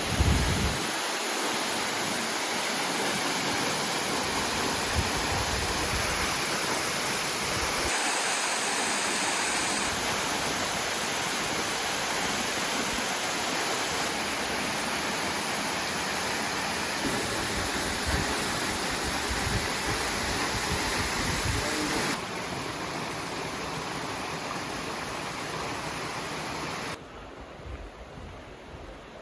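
Rushing water, a steady loud rush. It changes abruptly a few times and drops quieter near the end.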